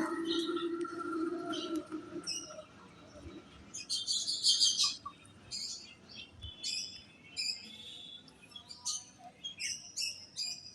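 Birds chirping: many short, high chirps repeating one after another, busiest about four seconds in. A steady hum fades out over the first two seconds.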